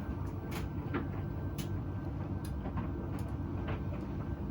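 Laundry machine running with its drum turning: a steady low hum with light clicks and knocks scattered irregularly through it as the load tumbles.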